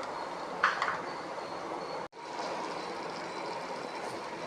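Steady hiss of egg gravy simmering in a pan on a low gas flame, with a brief sharper sound about half a second in and a momentary break about two seconds in.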